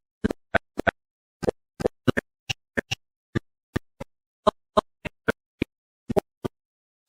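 A series of short, sharp clicks at uneven intervals, about three a second, with dead silence between them.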